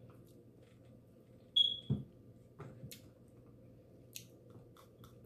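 Quiet room hum with small mealtime noises: a short, loud high squeak about a second and a half in, a low thump right after, and a few faint clicks.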